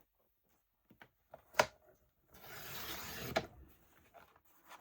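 Paper trimmer cutting paper: a click as the trimmer is set, then the blade rasps along the paper for about a second and ends with another click.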